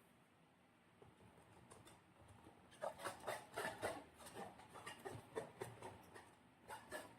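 Slime being squished and worked by hand: a run of short, wet, sticky clicks and squelches that starts faintly and grows busier about three seconds in.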